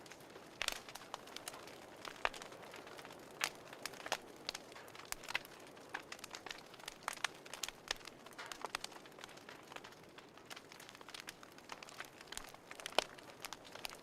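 Wood fire crackling: irregular sharp pops and snaps over a soft hiss, with one louder snap near the end.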